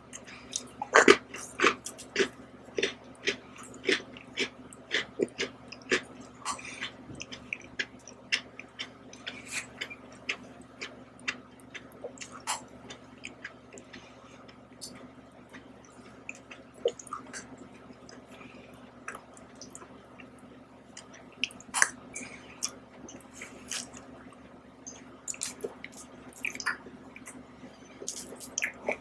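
Close-miked mouth sounds of eating ice cream and Oreo cookies: a run of wet clicks and smacks. They thin out around the middle and pick up again near the end.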